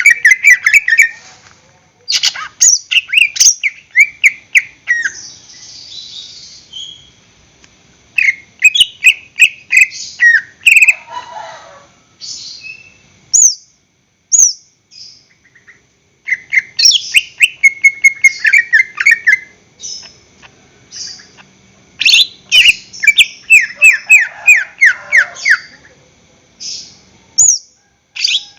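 Cucak ijo (green leafbird) singing loud phrases of rapid chirps, a few seconds each, with short pauses between phrases.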